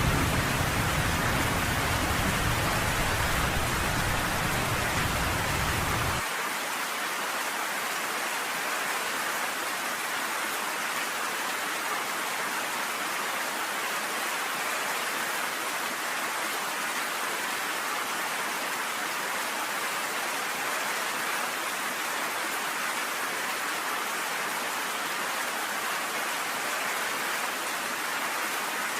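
Steady, even rain falling on a porch, a continuous hiss of drops. A deep low rumble underneath cuts off abruptly about six seconds in.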